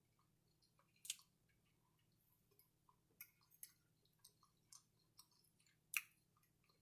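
Quiet close-miked chewing: scattered soft wet mouth clicks and smacks, with two sharper clicks about a second in and near six seconds.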